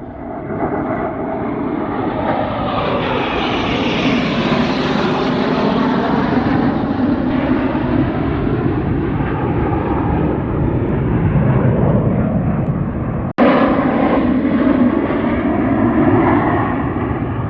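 Airplane engine noise as an aircraft passes, swelling to its loudest about four to five seconds in, then slowly easing. About thirteen seconds in it cuts out for an instant and loud engine noise resumes.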